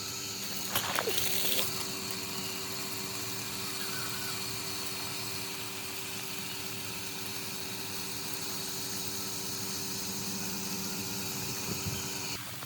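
Restored water pump's electric motor running steadily with an even hum and hiss, with a brief louder rush about a second in; it cuts off suddenly near the end.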